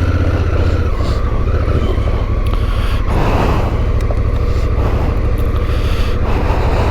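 2017 Honda Africa Twin DCT's parallel-twin engine running as the motorcycle rides off, with a steady low rumble whose note changes about a second in.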